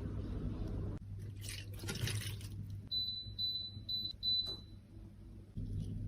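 An electronic device beeping four times in short high tones, the last beep longer, after a brief rushing noise; a steady low hum stops about a second in and comes back near the end.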